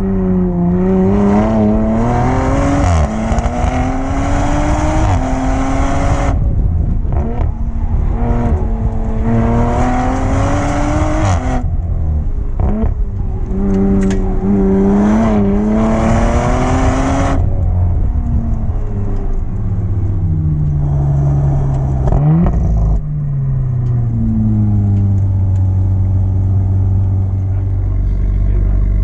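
Audi TT's engine pulling hard during a hillclimb run, the revs climbing and breaking off several times in the first two-thirds. After that the revs fall away and settle low near the end.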